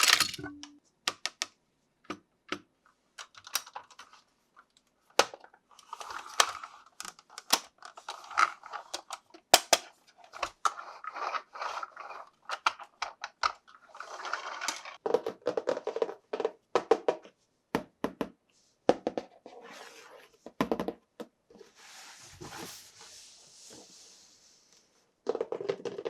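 Hands unboxing plastic toys: scattered sharp clicks and taps of plastic parts, with crinkling and rustling of packaging in the middle and a longer hissing rustle near the end.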